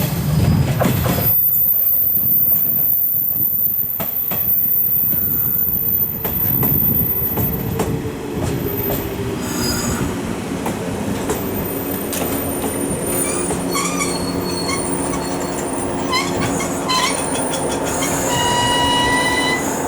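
Shinano Railway 115-series electric train pulling into the station, with clicks from the wheels over the rail at first, then squealing wheels and brakes holding steady tones as it slows.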